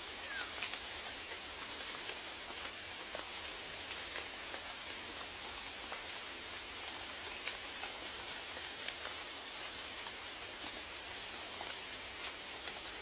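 Steady rain with many scattered raindrops ticking against a surface.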